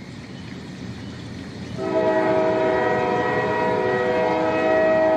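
Train horn blowing one long, steady multi-tone chord that starts about two seconds in, over the rumble of a train.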